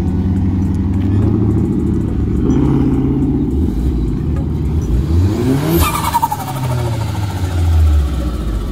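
Car engine running at idle, revved once about five seconds in, its pitch rising quickly and then falling back to idle.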